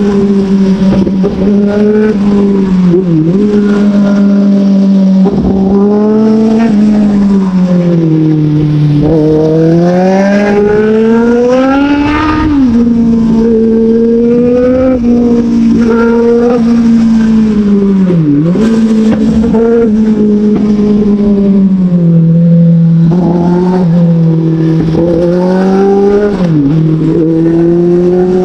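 Motorcycle engine under way, its note climbing and falling as the throttle opens and closes, with a few sharp momentary dips as the revs drop and pick up again.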